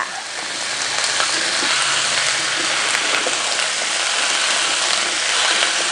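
Sliced pork, onion and freshly added potato cubes sizzling in hot oil in a wok: a steady frying hiss that swells slightly as the potatoes go in, with a spatula stirring through them.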